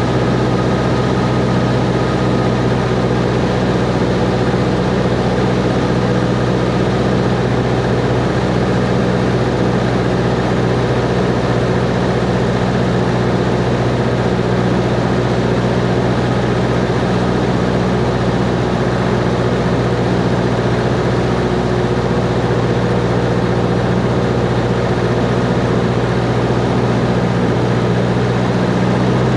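Cessna 140's four-cylinder piston engine and propeller running steadily, holding one even pitch throughout.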